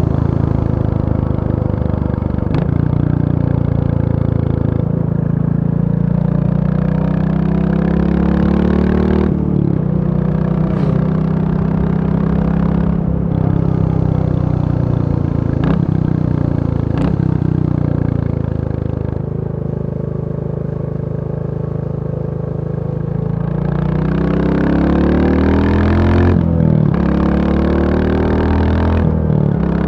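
Royal Enfield Bullet 350's single-cylinder four-stroke engine running, its pitch climbing and dropping again several times as it is revved. It eases off and runs quieter for a few seconds in the middle, then picks up again.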